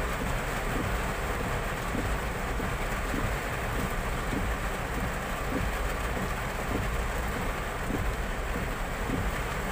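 Heavy rain pelting a car's roof and windscreen, heard from inside the cabin as a steady, dense hiss with many small drop ticks.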